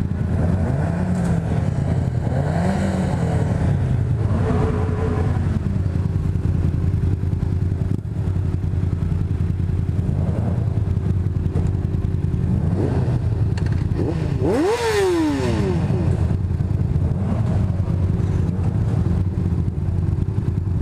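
Motorcycle engine running steadily on the move with wind noise. About fourteen seconds in, an engine revs sharply up and then falls away.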